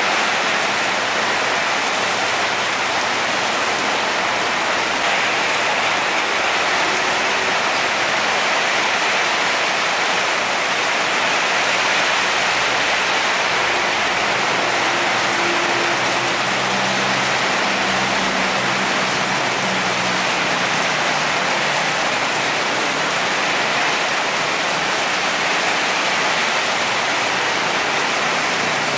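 Heavy tropical downpour: a dense, steady hiss of rain pouring down. A faint low hum comes in for a few seconds around the middle.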